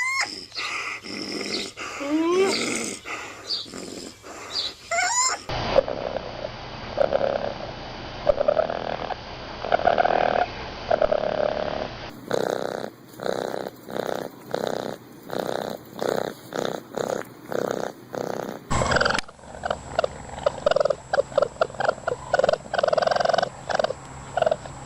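Raccoons calling in several recordings cut together: short rising high-pitched calls in the first five seconds, then repeated rhythmic pulsed calls, roughly two a second, with the recording changing abruptly twice more.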